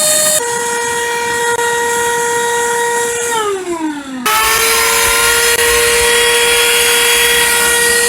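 Cordless stick vacuum cleaner's motor running with a loud, steady high whine. Its pitch steps down slightly just after the start; about three seconds in, the whine winds down for about a second, then comes straight back at full speed.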